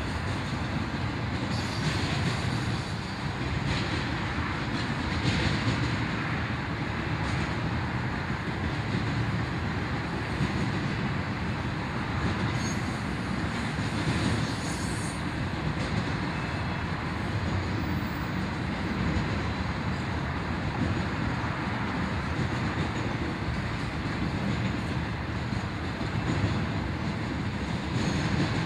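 Intermodal freight train rolling past, its trailer- and container-laden flatcars' wheels rumbling steadily on the rails.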